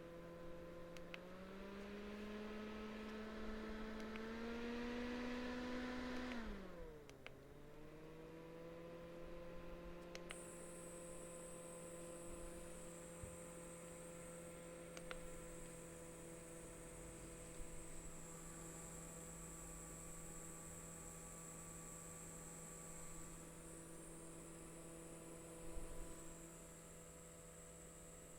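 Small desktop fan's motor humming faintly, its pitch stepping up twice in the first couple of seconds, then dropping and spinning back up around six to eight seconds in before holding steady, consistent with switching between fan speeds. A high thin whine joins about ten seconds in, with a few faint clicks along the way.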